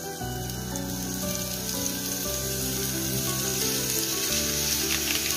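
Broccoli florets sizzling as they drop into hot oil in a frying pan, the hiss growing as more of them land. Soft background music of long held notes plays underneath.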